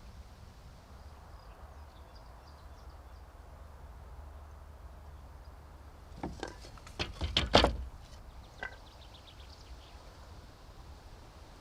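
A quick cluster of knocks and clatters about two-thirds of the way in, the last one the loudest, over a low steady rumble, with faint rapid high-pitched chirping before and after.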